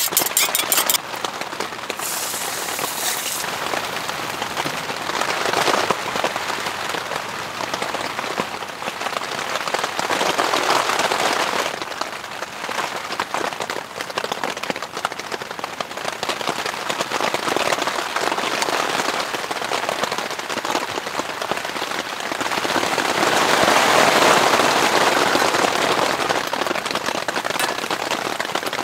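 Heavy rain pattering on a tent, steady and rising and easing in waves, loudest near the end. In the first second, chopsticks click rapidly against a metal cup as an egg is beaten.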